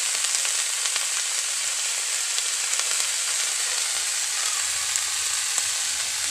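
Crawfish frying in a wok with sautéed garlic, onion and ginger: a steady sizzle with scattered small pops.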